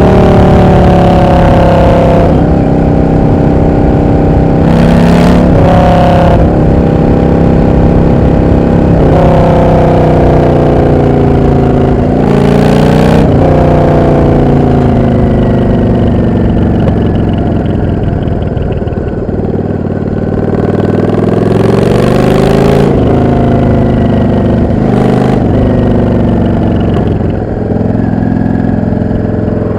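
Yamaha XVS650 Drag Star's air-cooled V-twin engine riding through traffic: pitch climbing under throttle and breaking off at several gear changes. Midway it winds down as the bike slows, then pulls away again.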